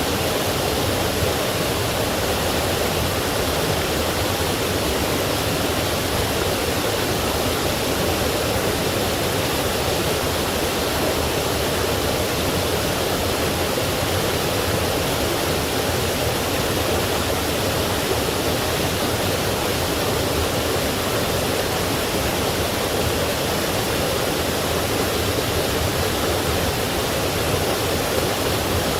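Forest stream flowing over rocks with small falls, a steady rushing of water.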